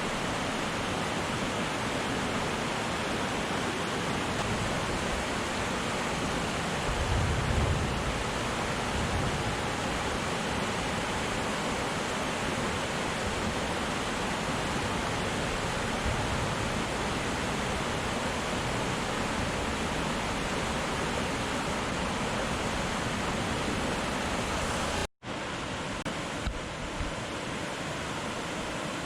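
Waterfall rushing steadily, with a brief low rumble about seven seconds in. A momentary drop-out near the end, after which the rush carries on a little quieter.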